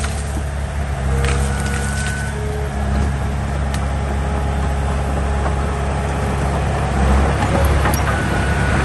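Diesel engine of heavy earthmoving machinery running steadily, with a few sharp knocks.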